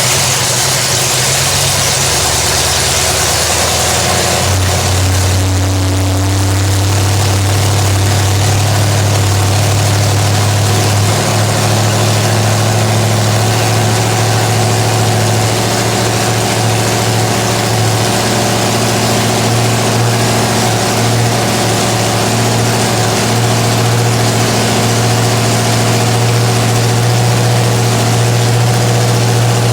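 Chevy small-block 350 V8 with an RV cam and a Holley 600 four-barrel running steadily through upright headers, loud, its low drone shifting about four to five seconds in and then holding steady. This is the freshly built engine's first run while its timing is being set.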